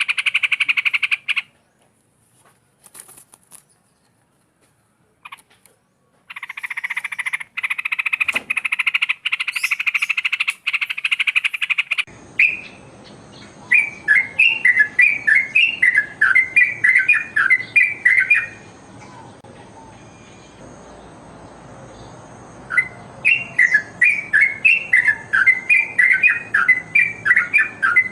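Yellow-vented bulbul (trucukan) singing: two runs of quick, bubbly whistled chirps, the second starting near the end. Before it, a dense, rapidly pulsing buzzy rattle sounds twice, with a gap between.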